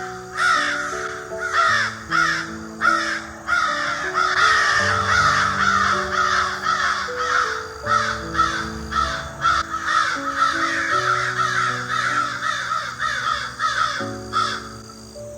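Birds calling over and over, about two or three rough calls a second, over soft background music of slow, sustained notes. The calls stop near the end, leaving the music.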